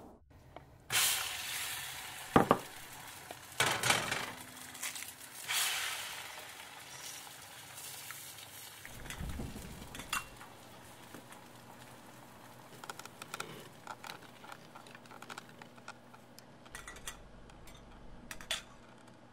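Kitchen sounds: food sizzling in a frying pan while utensils and dishes knock and clink, several loud knocks in the first few seconds and then lighter scattered clicks.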